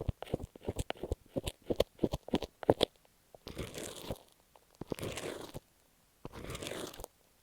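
Rapid fingertip tapping on masking tape stuck over an earphone microphone for about three seconds, then three slow scratching strokes across the tape.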